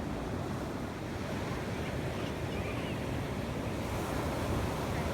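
A steady, low rushing noise with no distinct events.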